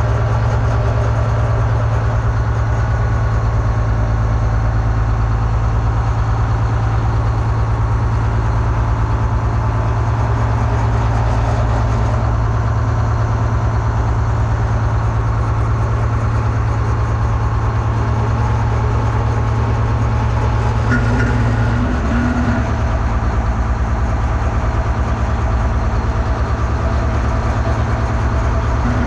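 Detroit Diesel 6-71, a two-stroke inline-six diesel, idling steadily with a constant low hum. About three-quarters of the way in, a higher steady tone joins briefly.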